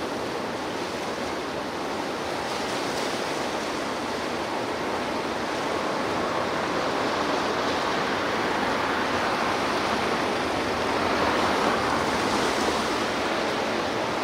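Sea surf washing onto the shore, a steady rush of breaking waves that swells louder about three-quarters of the way through.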